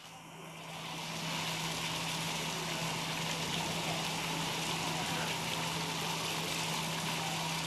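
Steady rushing background noise with a constant low hum, fading in over the first second.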